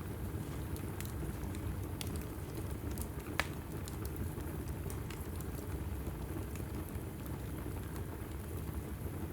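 Log fire burning in a fireplace: a steady low rumble of flames with scattered small crackles. One sharper pop comes about three and a half seconds in.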